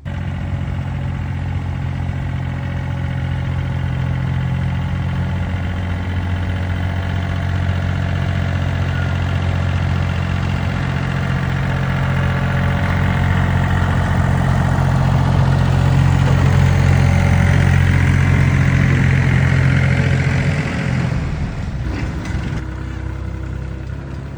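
An engine running steadily at a constant speed, starting abruptly. It grows somewhat louder through the middle, then drops back and changes in tone a few seconds before the end.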